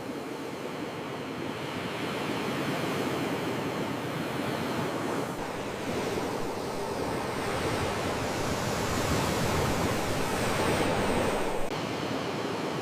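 Sea waves washing in as steady surf, swelling slowly and easing off again just before the end.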